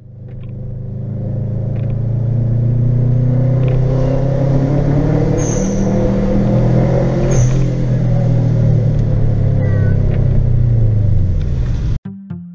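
Subaru Impreza's flat-four boxer engine running steadily while driving, heard from inside the cabin. It fades in over the first couple of seconds and cuts off suddenly near the end.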